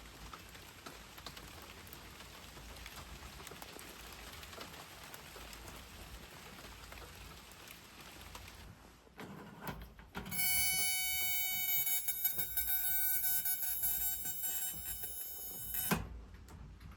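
Steady rain hiss. About ten seconds in, a loud, steady high-pitched tone with many overtones starts, holds for about six seconds and cuts off sharply.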